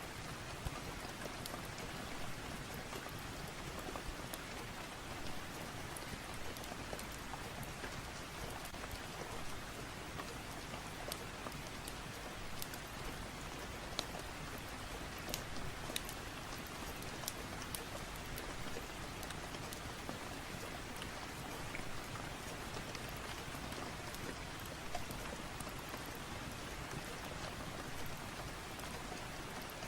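Steady rain, an even hiss with scattered sharp ticks throughout.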